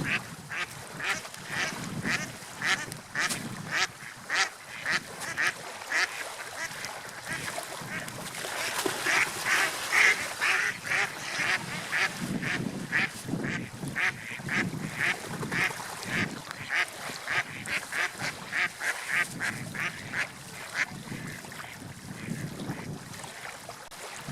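Waterfowl calling over and over, about two short calls a second, over steady background noise. The calls are loudest and come thickest a little before halfway.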